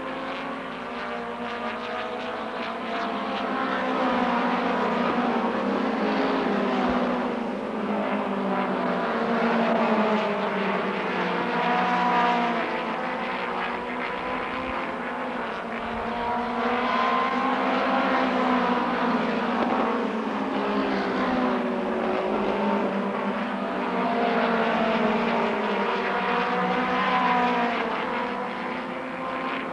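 Midget race cars lapping an oval track: several engines rise and fall in pitch together as the drivers accelerate and lift, and the sound swells and fades as the field comes past.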